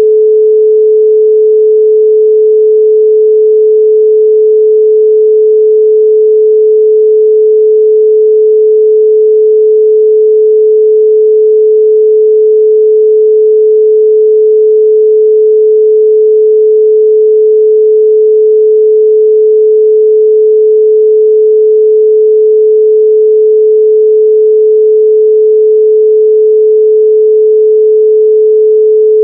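A loud, steady 432 Hz pure sine tone, one unchanging pitch with nothing else.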